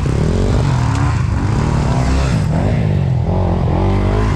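Enduro motorcycle engine revved up and down several times in quick succession, the pitch climbing and dropping with each twist of the throttle.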